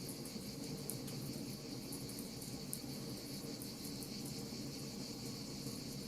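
Wood fire crackling, with small sharp pops scattered over a steady low rush and a steady high hiss.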